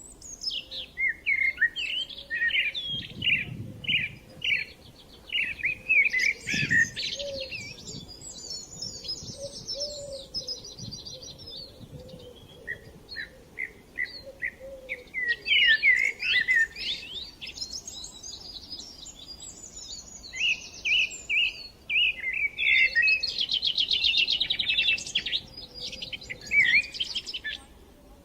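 Several small songbirds chirping and singing in a continuous chorus of short high chirps, quick trills and buzzy rattling phrases.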